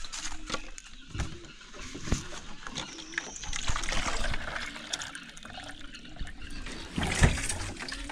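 Water being poured into a container, a trickling pour that rises slightly in pitch partway through as it fills. It is broken by a few sharp knocks, with a louder one near the end.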